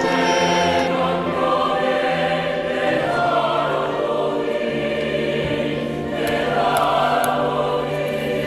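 Background music: a choir singing slow, held chords that change every few seconds.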